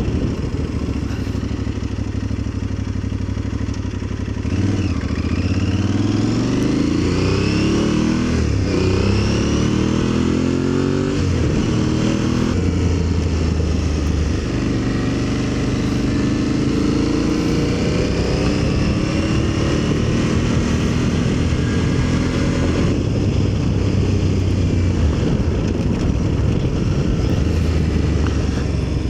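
Aprilia Tuareg motorcycle engine running low at first, then accelerating hard through the gears: about five seconds in the pitch rises in several climbs, each cut short by an upshift. From there it settles into a steady cruise with small changes in speed.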